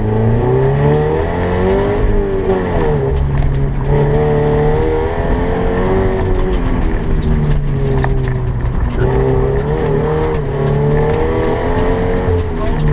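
Scion FR-S's 2.0-litre flat-four engine heard from inside the cabin, its revs climbing and dropping again and again as the car accelerates hard and slows through an autocross course.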